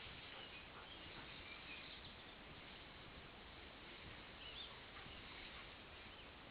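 Near silence: faint outdoor background hiss with a few faint, distant bird chirps.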